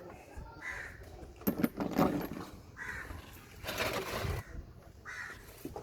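A crow cawing three times, each call short and about two seconds apart. Two louder noisy bursts come between the calls.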